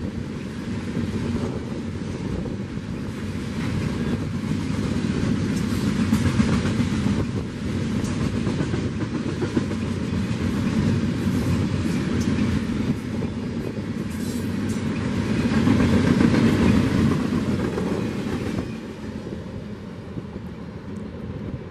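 Freight train of tank cars rolling past: a steady rumble of steel wheels on the rails with clickety-clack at the rail joints. It swells twice and fades over the last few seconds.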